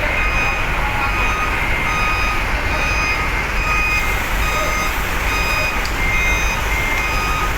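Truck reversing alarms beeping repeatedly, several at different pitches and out of step with one another, over a steady low rumble of truck engines.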